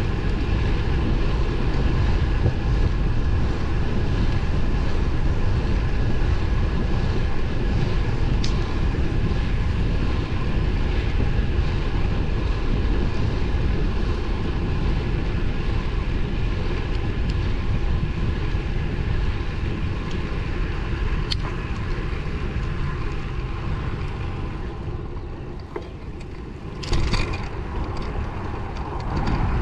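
Wind rushing over the microphone with tyre and road noise from a road bike riding at speed. The noise eases near the end, then a short loud gust of noise follows.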